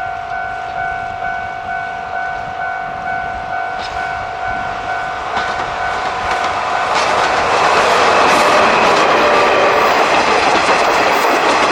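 Level crossing warning bell ringing in a steady pulse, about two strikes a second. From about six seconds in, the SL Moka train passes close by, its wheels clattering over the rail joints and drowning out the bell.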